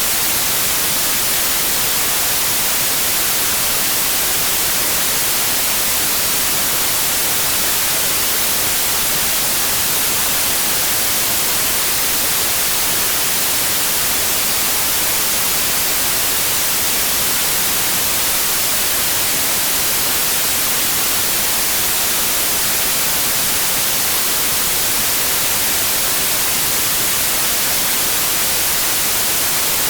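Steady white noise: an even, unchanging hiss that is strongest in the treble.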